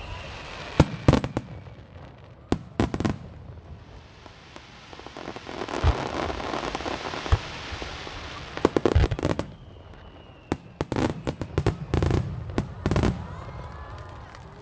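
Fireworks display: clusters of sharp bangs from shells bursting, then a dense crackling hiss lasting several seconds from about four seconds in, followed by more quick volleys of bangs.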